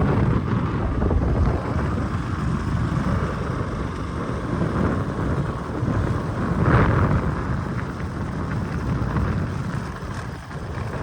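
Steady rumble of a moving vehicle on a road, with wind rushing over the microphone. The noise swells briefly a little past the middle.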